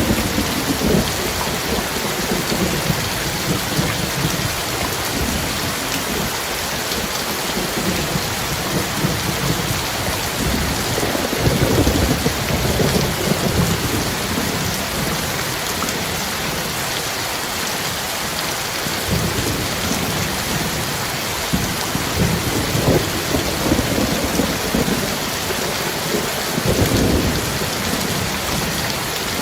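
Heavy rain falling steadily, with low rolls of thunder rumbling up several times, loudest about eleven to thirteen seconds in.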